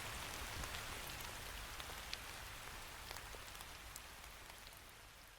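Steady rain falling, with scattered single drops ticking now and then, growing gradually quieter as it fades out.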